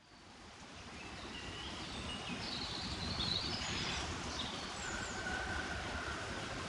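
Outdoor background noise fading in, with a few short bird chirps through the middle and a thin held whistle-like tone near the end.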